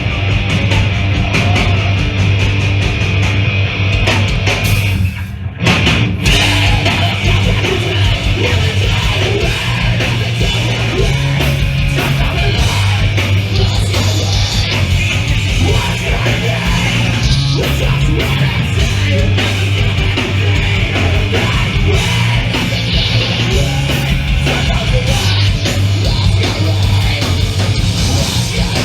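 A hardcore punk band playing live and loud, with distorted guitars, bass and drums and vocals. About five seconds in there is a brief break before the band comes back in.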